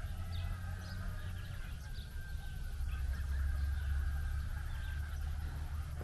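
Scattered short bird calls over a steady low rumble.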